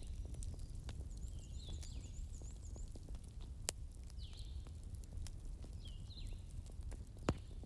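Campfire burning: a steady low rumble of the fire with scattered crackles and a few sharp pops, the two loudest about halfway through and near the end. Faint high chirps repeat in the background.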